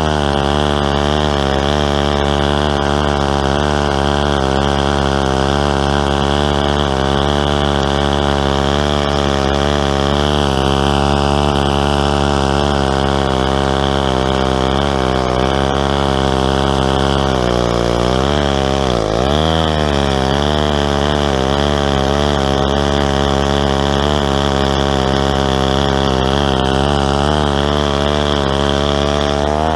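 Stihl 090, a big two-stroke chainsaw, held at full throttle as it rip-cuts a tulip poplar log in a chainsaw mill. The engine runs steady and high-revving, dipping briefly under load and recovering about two-thirds of the way through.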